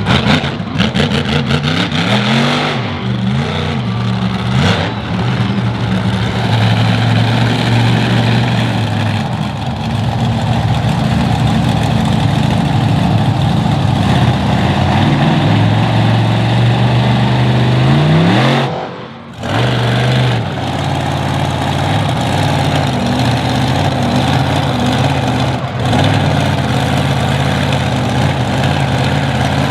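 Monster truck engine revving hard, its pitch climbing and falling with the throttle and held at high revs for long stretches. It drops away suddenly for about a second a little past the middle, then runs again.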